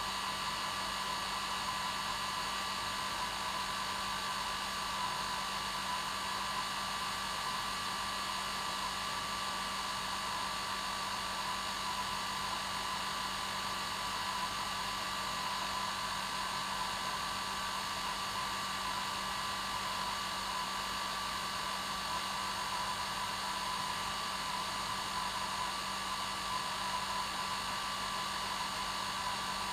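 Hair dryer running steadily without change: a constant rush of air over a steady motor hum and whine.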